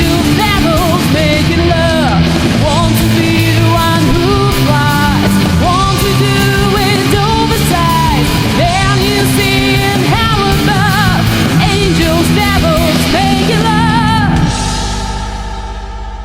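Alternative rock band music: drums with cymbals, bass and guitars under a wavering lead melody that bends in pitch. About fourteen and a half seconds in, the playing stops and a last chord rings out and fades as the song ends.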